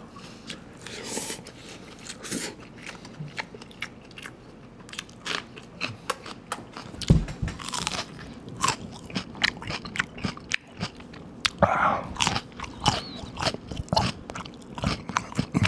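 Close-miked crunching and chewing of a raw Yeongyang red chili pepper, with many crisp crunches throughout.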